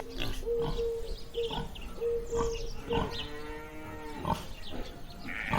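Farm animals calling: a long drawn-out call with short grunt-like sounds in between.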